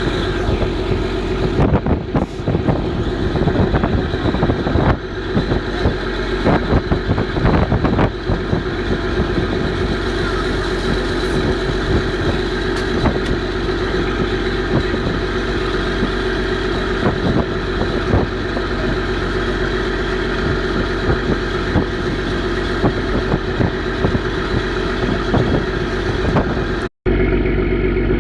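Boat engine running steadily, with a constant drone, rattling and frequent knocks over it. It cuts out abruptly for a moment near the end.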